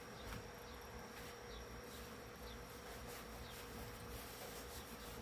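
Faint steady buzzing hum, with a few light ticks and faint short chirps over it.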